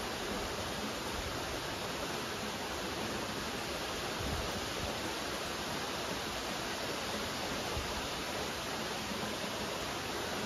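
Steady rainfall: an even hiss of rain that holds unchanged throughout.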